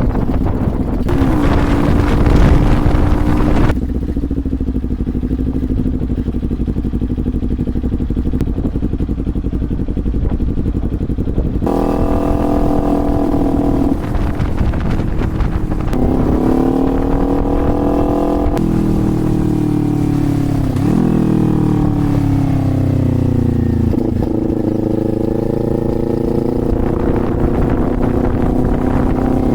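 Motorcycle engine running while riding, its pitch rising and falling several times as it accelerates and eases off, over a constant low wind rumble on the microphone. A louder rushing noise fills the first few seconds.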